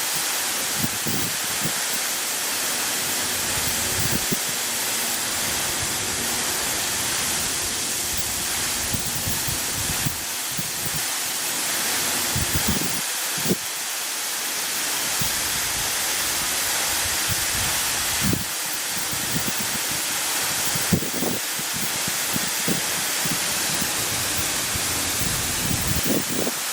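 Steady rushing hiss of water falling from a tall vertical waterfall, with occasional brief low bumps.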